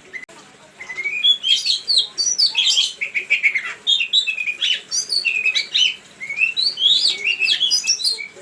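Songbird singing a fast, varied song of sharp chirps and slurred whistles, in dense phrases after a quiet first second and with a brief pause about six seconds in. It is a pancingan lure recording, meant to make caged songbirds answer.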